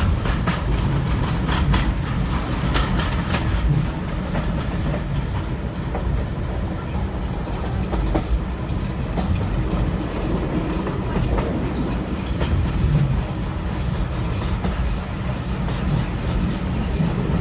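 Steam train hauled by a Stanier Black 5 4-6-0 on the move, heard through the open carriage window: a steady rumble with the clickety-clack of the coach wheels over rail joints, the clicks thickest in the first few seconds.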